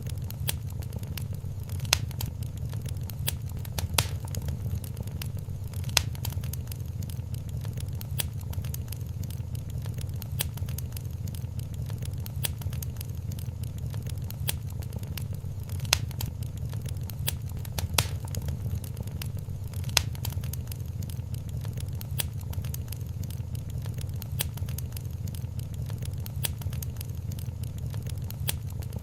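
Wood fire crackling in a fireplace: a steady low rumble of flames with dense small crackles and, every few seconds, a louder sharp pop.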